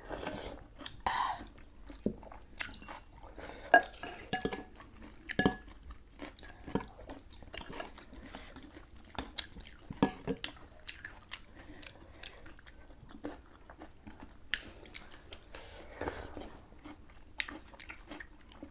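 People chewing and biting mouthfuls of Karen noodle soup (kaw naw), with scattered short crunches and clicks throughout.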